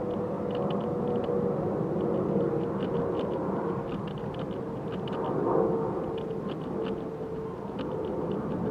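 A steady engine drone holding one slightly wavering tone. Short, faint high chirps sound again and again above it.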